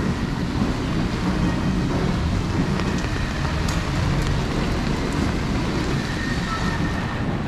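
Steady rain falling and pattering, with a low rumble on the microphone and a few faint drop clicks.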